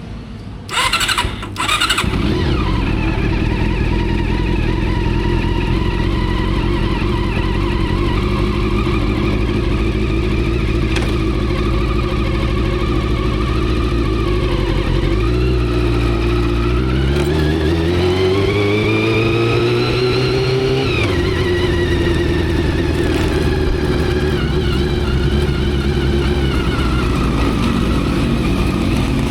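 Motorcycle engine starting with a short crank about a second in, then running steadily at idle. About halfway through the engine speed rises smoothly for several seconds, then drops back sharply and settles to a steady run.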